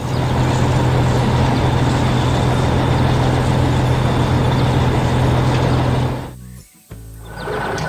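Heavy vehicle engine running steadily with a low hum, cutting out about six seconds in; a different steady engine sound starts near the end.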